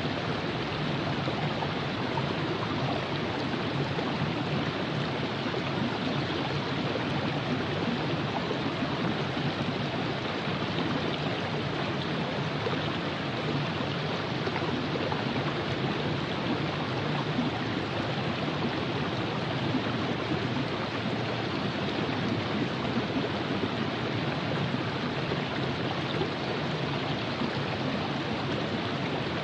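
Virgin River flowing steadily over rocks, a continuous even rush of moving water with no breaks.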